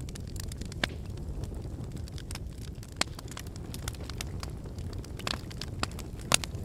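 Wood fire in a fireplace crackling: scattered sharp pops and snaps over a steady low rumble of the flames, with the loudest pop near the end.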